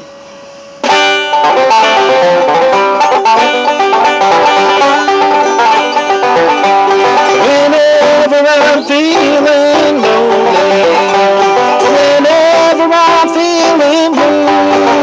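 Banjo-led bluegrass instrumental intro, the banjo picking over guitar and band, starting in earnest about a second in, with some sliding notes around the middle.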